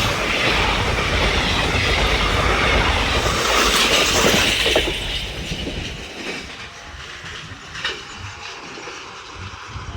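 Passenger coaches of the Nagercoil–Tambaram Superfast Express rumbling and clattering over the rails as the train passes close by. The sound dies away about halfway through as the train draws off, leaving a few fading clacks.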